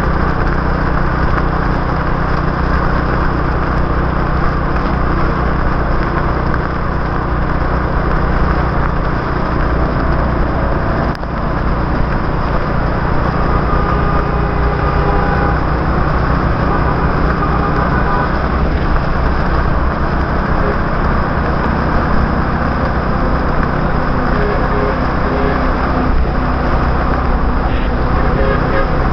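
Motorbike engine running steadily while riding, with tyre hiss from the wet road and the sound of passing city traffic.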